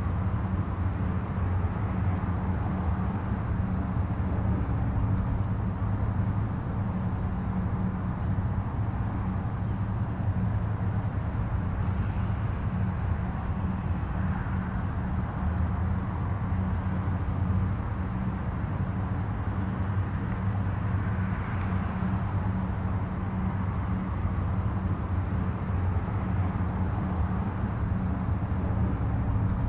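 Distant highway traffic: a steady low rumble of tyres and engines from many vehicles, with the odd vehicle swelling a little louder as it passes.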